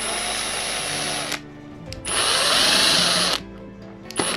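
Power drill/driver running in two bursts of about a second and a half each, the second louder, backing out screws from the fan's motor housing.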